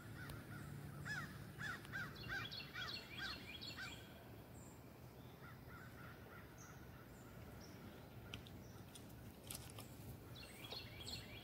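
Faint bird calls: a run of about seven short calls, roughly two a second, in the first few seconds, then a few fainter calls near the end.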